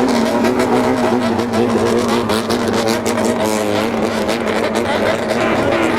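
Modified motorcycles with straight-pipe exhausts running together, engines revving so the pitch rises and falls about halfway through and again near the end.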